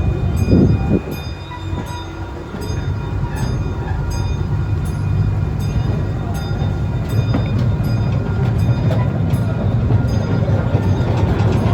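Ride-on park train rolling along its track: a steady low engine hum under a regular rhythm of wheel clicks.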